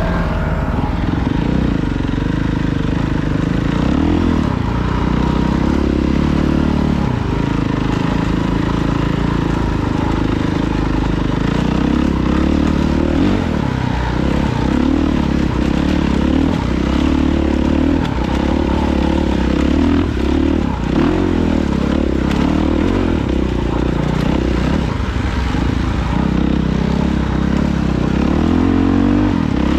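Off-road vehicle engine running continuously while riding, its pitch rising and falling with the throttle, with some rattling and scraping from the machine over rough ground.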